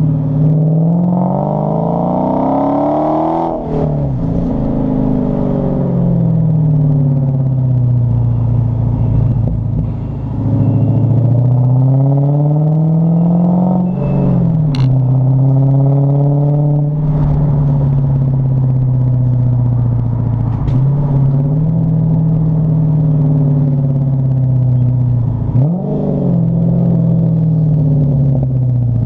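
2014 Dodge Challenger SRT8's 6.4-litre HEMI V8 exhaust, rear muffler deleted, running under throttle: the pitch climbs and then drops sharply several times, as at gear changes, with steadier stretches between.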